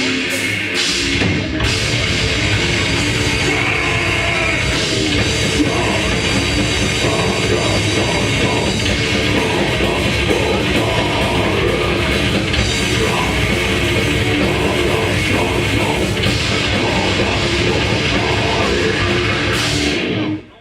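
Death metal band playing live: distorted guitars, bass and drum kit. The music stops abruptly at the very end as the song ends.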